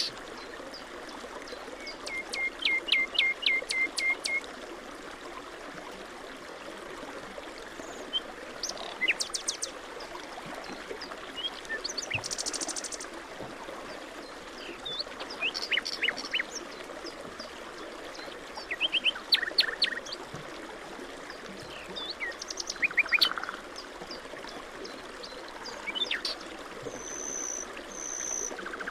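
Several birds calling in short runs of sharp chirps and trills, over the steady rush of flowing water.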